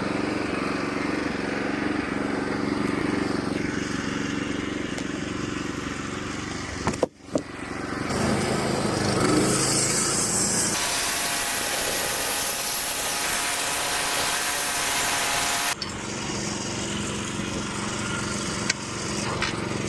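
Sawmill running with its engine going and the blade cutting through a cherry log, giving a steady hiss and whine over the engine. The sound breaks off sharply about seven seconds in and again near sixteen seconds.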